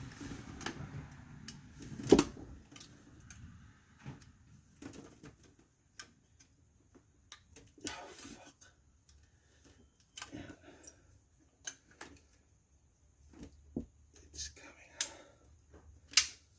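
Scattered metallic clicks, clinks and knocks of hand tools working on drum brake parts. There is a sharper knock about two seconds in and a few more near the end.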